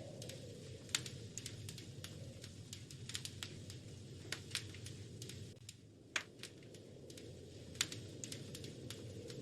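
Wood fire crackling in a fireplace: irregular sharp snaps and pops over a low steady rush, with a few louder pops about a second in, around six seconds and near eight seconds.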